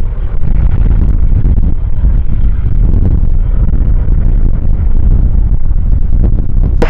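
Steady low rumbling roar of a departing aircraft's engines, mixed with strong wind buffeting the microphone.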